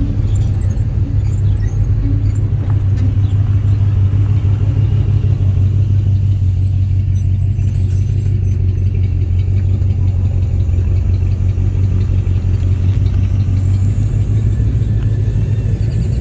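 Car engine running steadily, a deep, even rumble with no change in speed.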